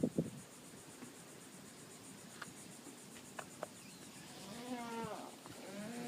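A boat's hull squeaking as the wind rubs it against the dock with no bumpers: two drawn-out squeaks that bend in pitch, starting a little past the middle, after a few faint clicks. Insects chirp steadily in the background.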